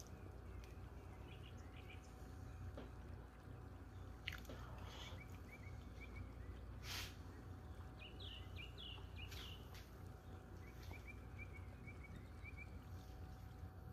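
Faint background noise with a steady low hum, a few short rustles, and small birds chirping in short runs of quick notes now and then.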